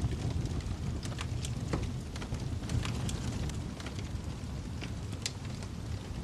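Wood fire burning in a fireplace: a steady low rumble with irregular sharp crackles and pops, a few a second.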